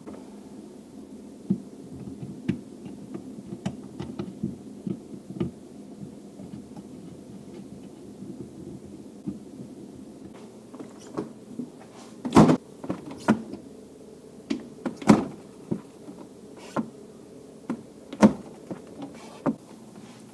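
Irregular clicks and knocks of hands and tools working on a fridge door's hinge while nylon washers are fitted, a few sharper knocks standing out about halfway through and near the end, over a steady low hum.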